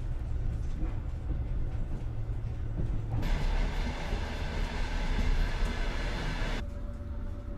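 Train running on the BAM railway: a steady low rumble, with a louder hissing rush for about three seconds in the middle, and a thin steady tone near the end.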